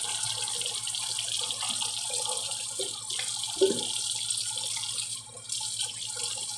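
Tap water running steadily into a kitchen sink, with a light knock about three and a half seconds in.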